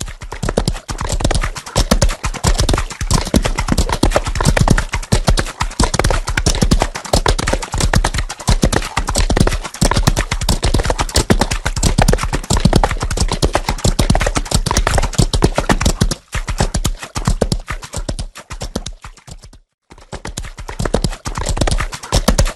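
Hoofbeats of several running horses galloping: a dense, rapid, uneven clatter of hooves. It cuts out briefly about twenty seconds in, then resumes.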